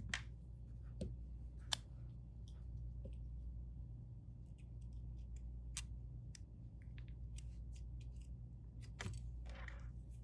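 Scattered small clicks and taps of tools handling a phone during a screen repair, with a short scrape near the end, over a steady low hum.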